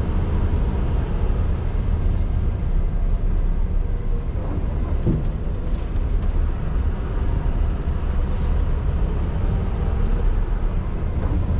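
A Scania R620's 16-litre V8 diesel engine running steadily under way, a constant low drone heard from inside the truck's cab.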